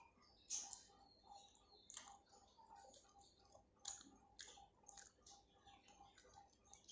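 Quiet close-up eating sounds: a person chewing a rice meal, with soft irregular wet mouth clicks several times a second.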